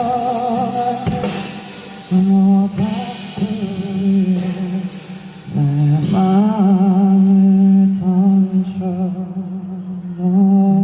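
Live band music from the end of a pop ballad: wavering, held melody notes over a steady low note, breaking off and picking up again several times.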